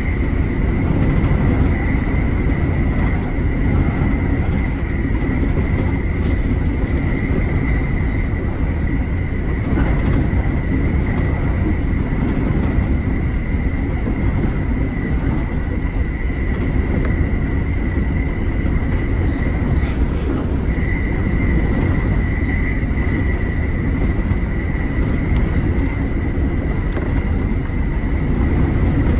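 Electric commuter train of the Sobu Rapid Line running along the track, heard from inside the leading car: a steady rumble of wheels on rail with a steady high whine over it, which drops out briefly about twenty seconds in.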